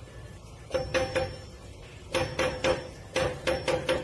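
Metal door bolt and padlock rattled by a cat's paws: three bursts of metallic clanking, about ten clanks in all, each with a brief ring.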